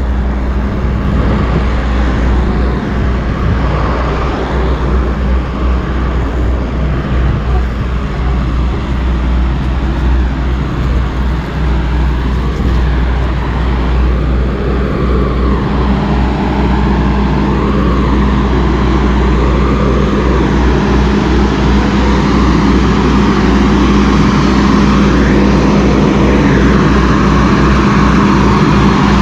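Riding a Sur-Ron electric dirt bike: a loud, steady rush of wind over the microphone, with a faint whine that rises and falls as the speed changes.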